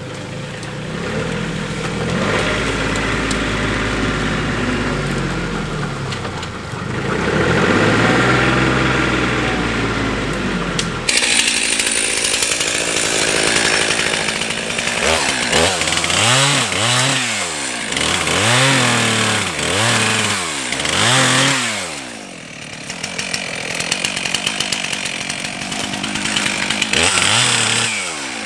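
A compact tractor's engine running and changing speed, then, after a sudden change about a third of the way in, a Stihl chainsaw revved up and down in repeated bursts as it cuts through downed trees.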